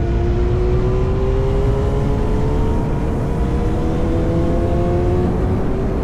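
Yamaha R1 inline-four with an SC-Project exhaust under way, its pitch climbing slowly as it pulls through a gear. About five seconds in the pitch steps down a little, as at an upshift, then starts climbing again, over a heavy low rumble of wind and road noise.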